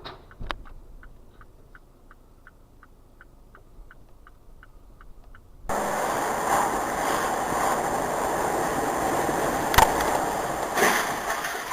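A car's turn-signal indicator ticking evenly, about three ticks a second, inside a quiet cabin. Partway through, an abrupt cut brings in loud, steady wind and road noise with one sharp bang.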